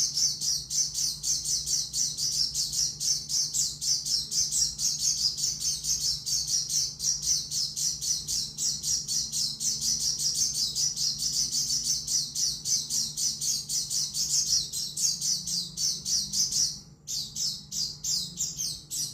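White-eye (pleci) singing a fast, continuous twittering song of high chirps, about five or six a second, with a brief pause near the end.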